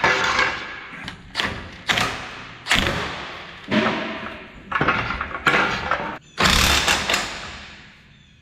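Hammer blows on metal: about eight heavy thuds at uneven spacing, each dying away quickly, the last one longer.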